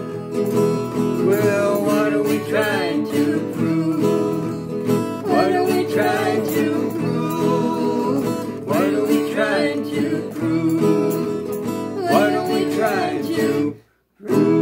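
Folk-rock music: acoustic guitar strumming chords with a gliding melody line over them. The sound cuts out completely for about half a second just before the end.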